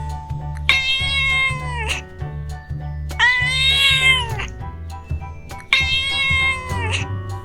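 Domestic cat meowing three times, each meow long and drawn out and falling in pitch at the end, over background music with a steady low bass line.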